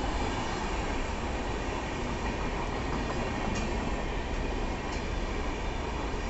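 Passenger chair-car coaches of an express train passing at speed: a steady rumble and rattle of steel wheels running on the rails, with a couple of faint clicks a little past the middle.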